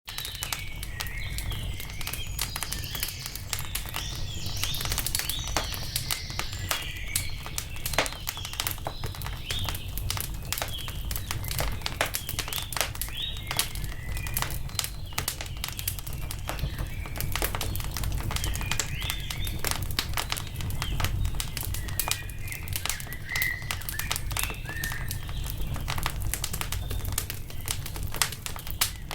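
Wood fire crackling with frequent irregular pops and snaps over a low steady rumble, while small birds chirp and twitter in bursts.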